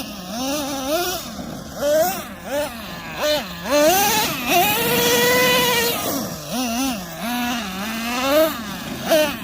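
Traxxas Revo 3.3 nitro engine, a small two-stroke glow engine, revving up and down again and again as the RC truck is driven. Around the middle it is held at high revs for about a second and a half.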